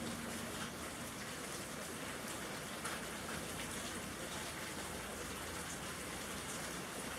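Steady rain falling, with individual drops standing out against the even hiss.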